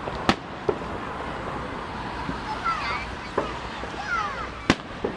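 Aerial fireworks bursting: several sharp bangs at uneven intervals, the loudest about a third of a second in and near the end, over a steady background of crowd noise.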